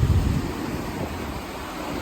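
Wind buffeting the microphone in uneven low gusts, over the steady rush of a river running high with spring runoff.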